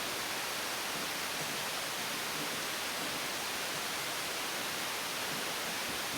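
Steady, even hiss with no distinct knocks, clicks or tones.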